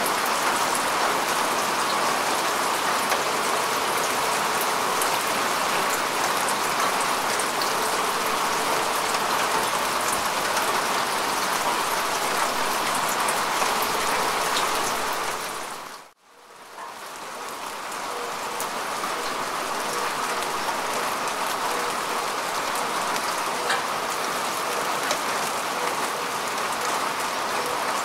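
Steady rain falling on grass and earth: an even hiss of many small drops. About sixteen seconds in it fades briefly to near silence and swells back up over a couple of seconds.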